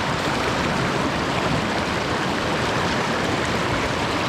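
Steady rush of a fast-flowing mountain stream running over rocks.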